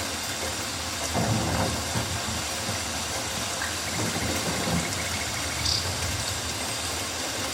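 Rainforest ambience: a steady hiss of rain over a low rumble, swelling louder a few times, starting about a second in, with a faint thin high tone in the middle and a brief high chirp near the end.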